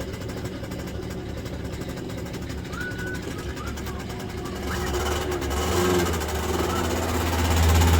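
Motor scooter engine running with a steady low hum, getting louder about five seconds in.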